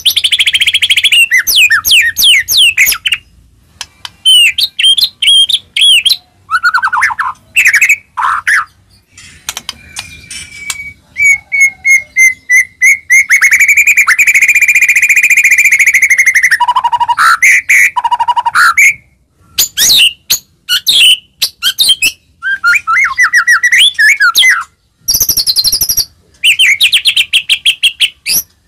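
White-rumped shama (murai batu) in full song: a loud, varied run of whistled phrases, rapid trills and quick up-and-down sweeps, broken by short pauses, with one long buzzy held note about halfway through.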